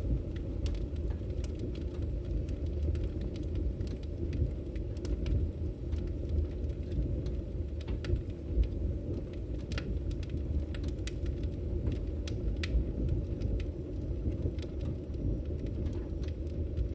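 Wood fire burning in a fireplace: a steady low rumble of flames with sharp pops and crackles scattered irregularly throughout.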